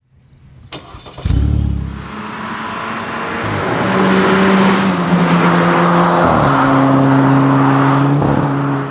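Audi A5 2.0T turbocharged four-cylinder through a 3-inch stainless turbo-back exhaust with chambered mufflers, sounding with a loud burst about a second in. It then runs at several held engine speeds, its pitch stepping up and down and growing louder.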